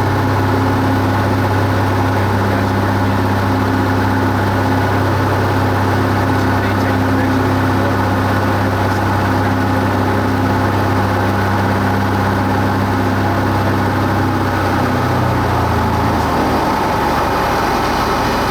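Cessna 172 Skyhawk's piston engine and propeller droning steadily. The deep low hum fades out near the end.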